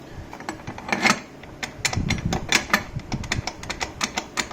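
Irregular metallic clicking and clattering of hand tools and parts being handled, with several sharp clicks a second at uneven spacing.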